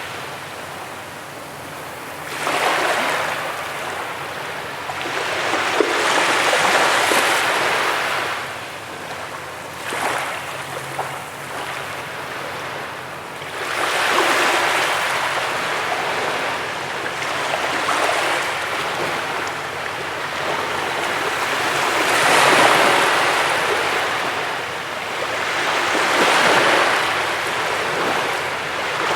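Waves breaking on a beach: surges of surf rise and wash back every few seconds, one after another.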